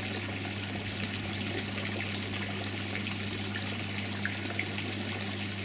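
Running water trickling and splashing steadily, with a steady low hum underneath.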